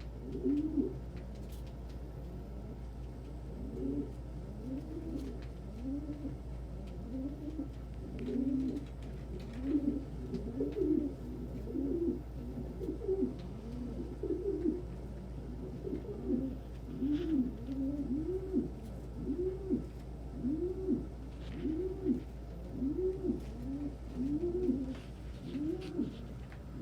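Domestic pigeons cooing in a loft: many low, arching coos overlap at first, then settle into a regular run of about one coo a second from around the middle. The keeper takes the calling for a lonely single cock that no hen is answering.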